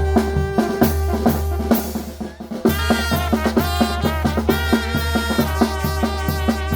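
Oaxacan traditional brass band playing, with wind instruments holding chords over a steady beat of bass drum and snare. Near the middle the band thins out briefly, then comes back in full.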